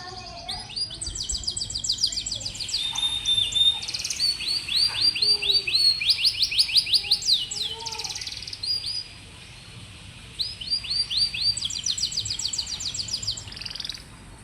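Domestic canary singing: fast repeated trills and rolling phrases, high-pitched, with a brief pause about two-thirds of the way through before the song resumes.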